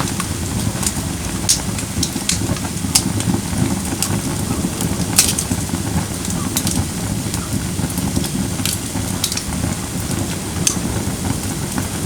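Firewood burning in a fire bowl: a steady low rush of flames with irregular sharp crackles and pops from the burning logs.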